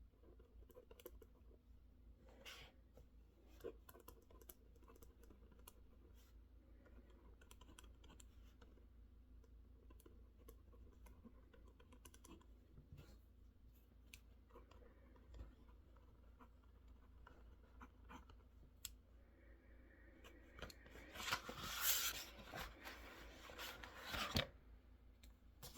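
Faint, sparse key clicks of a mechanical keyboard being typed on. Near the end comes a louder scratchy rustle lasting about three seconds.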